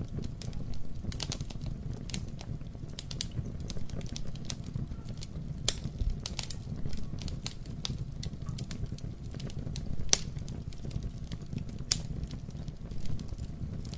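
Campfire burning with a steady low rumble of flames and irregular crackling, with a few louder pops from the burning wood.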